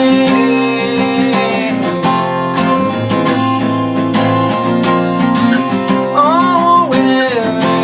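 Acoustic guitar strumming steadily in the closing bars of a song, with a held melody note that bends in pitch about six seconds in.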